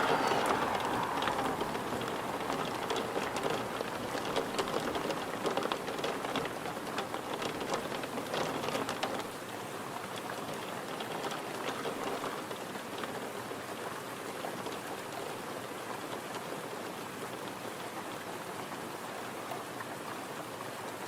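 Steady rain with many sharp drop sounds through the first nine seconds or so, then quieter and more even. The tail of a siren fades out in the first second.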